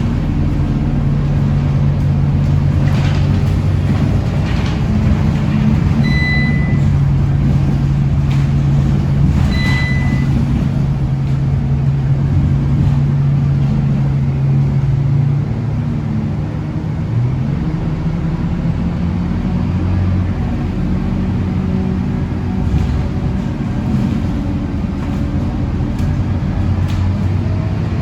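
Scania K230UB bus's diesel engine running steadily, its hum shifting in pitch about two-thirds of the way through as the bus changes speed or gear. Two short electronic beeps sound about a third of the way in.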